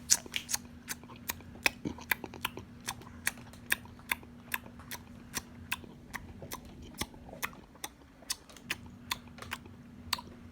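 Toothless gums smacking in a chewing motion: a long run of sharp clicks, about two to three a second, mimicking how someone without teeth eats.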